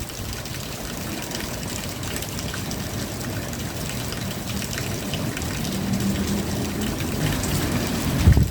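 Steady rain with fine drips and trickling water. A low hum builds in the second half, and a loud low thump comes right at the end.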